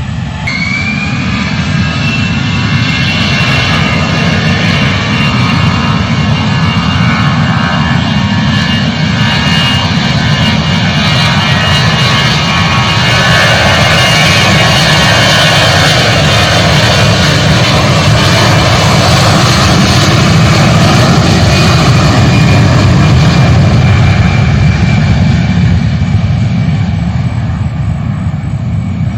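Jet airliner's engines running loud: a deep rumble with a high whine that rises just after the start, swelling through the middle and easing off near the end.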